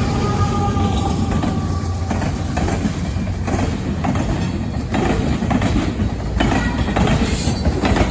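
CSX intermodal freight train rolling past close by: a steady rumble of the cars, with wheels clacking irregularly over rail joints and interlocking switches. A faint whining tone fades out in the first second and a half.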